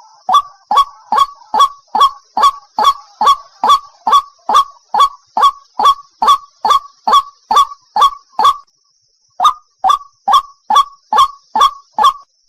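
White-breasted waterhen calling, a lure-call recording: a fast, even run of short, sharp calls, about two and a half a second. The run breaks off for about a second two-thirds of the way through, then starts again.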